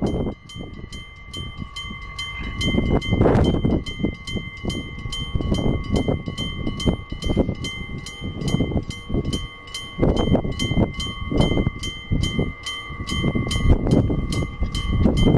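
Old-style electric-bell level crossing ringing continuously, a steady rapid ding of about two to three strikes a second. Strong wind buffets the microphone in loud low gusts over it.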